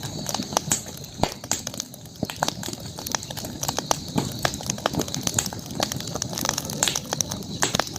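Campfire crackling, with many irregular sharp pops and snaps from the burning wood over a steady high-pitched background hiss.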